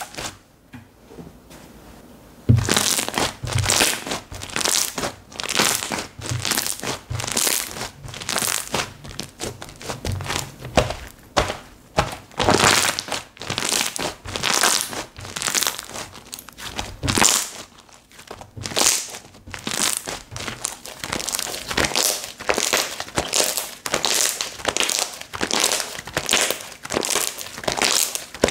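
Slime being squished and pressed by hand, giving a steady run of crackling, crinkly pops about once or twice a second. It starts after a short lull of about two seconds.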